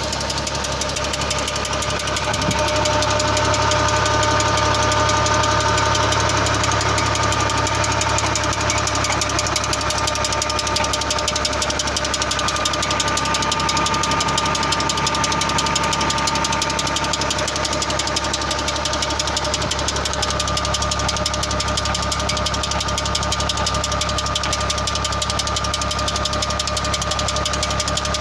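New Holland Ghazi tractor's diesel engine running steadily while driving a tubewell pump through a shaft, with a knocking clatter and a steady high whine over it.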